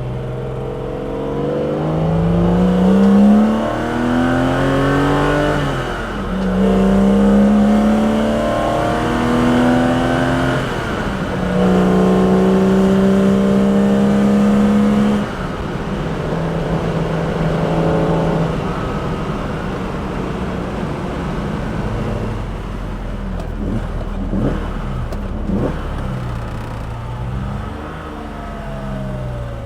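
BMW S38B36 3.6-litre straight-six with individual throttle bodies and a custom exhaust, pulled hard up through the gears. The revs climb and fall back at upshifts about 3.5 and 11 seconds in, then hold high until a sudden lift-off about 15 seconds in. It runs lower through a stretch with a few sharp cracks, and the revs climb again near the end.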